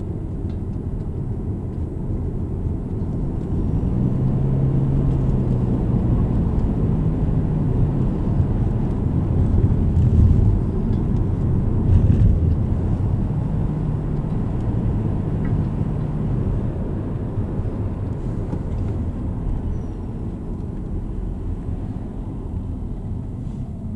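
Car driving through town, heard from inside: steady low engine and road rumble. It swells a few seconds in, is loudest around the middle, and eases off near the end.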